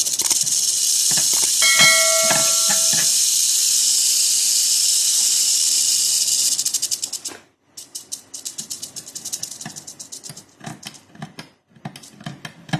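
Mojave rattlesnake rattling its tail in a continuous high buzz for about seven seconds, then cutting off abruptly and going on in shorter, broken bursts. A brief steady tone of several pitches sounds about two seconds in.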